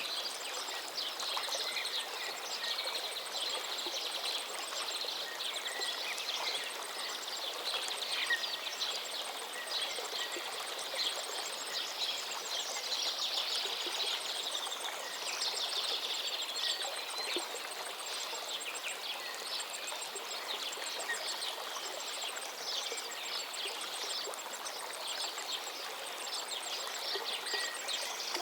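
A river flowing steadily while many small birds chirp and twitter over it, with a fast, even, high-pitched ticking trill running above.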